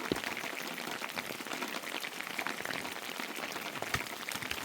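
Steady rain falling, an even hiss with many scattered drop clicks.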